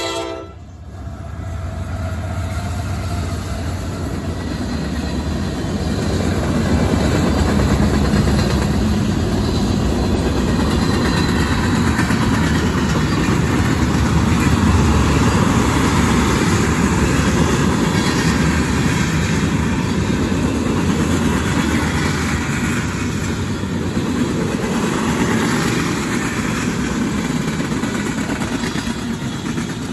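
CSX freight train passing: a horn blast cuts off just after the start, then the steady rumble of the locomotive and its tank cars rolling by on the rails, building over the first few seconds and staying loud.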